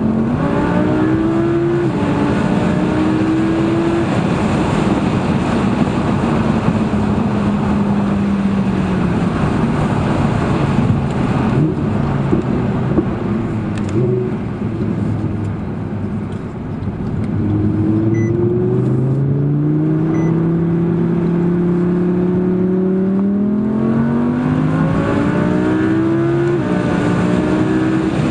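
Audi R8 V10 Plus's V10 engine pulling the car through the gears, its pitch climbing and stepping back at each upshift. About halfway through the revs fall away and the engine goes quieter. After that it builds again through several more shifts, over steady road and tyre noise.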